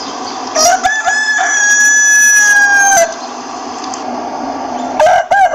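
Rooster crowing: one long cock-a-doodle-doo held on a steady pitch for about two seconds, ending with a falling note at about three seconds in. A second crow begins just before the end.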